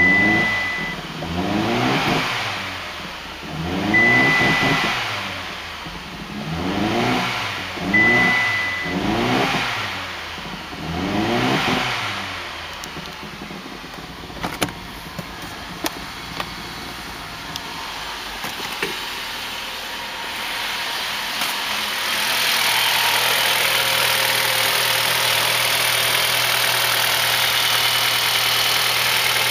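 Mitsubishi Outlander CW5W's 4B12 2.4-litre inline-four engine revved in repeated short blips, about one every two seconds, with three short high beeps among them. It then settles to a steady idle. About ten seconds before the end, a steady rushing noise comes in over the idle.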